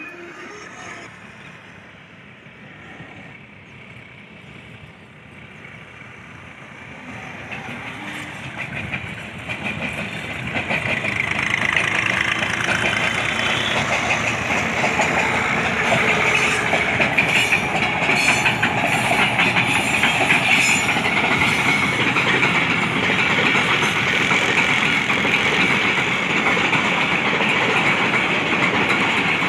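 A passenger train led by a GE U20 diesel locomotive approaches and passes: the locomotive and its wheels grow steadily louder over the first ten seconds or so. After that the coaches roll by with a steady rumble and clatter of wheels on the rails, with bursts of clicking as the wheels cross rail joints.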